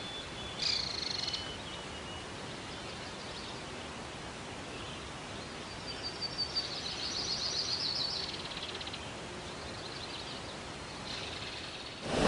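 Songbirds chirping and trilling over a steady outdoor hiss, with a burst of song about a second in, a longer trill between about six and eight and a half seconds, and another phrase near the end.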